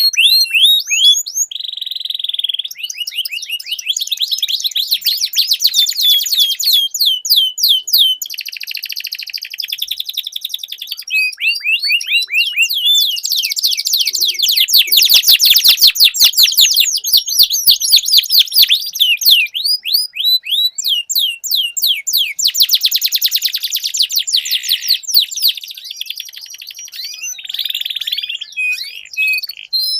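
Domestic canary singing long, unbroken trilling song ('rolls'): runs of fast repeated high notes, each run lasting a few seconds before switching to a new trill. The loudest and fastest stretch comes about halfway through.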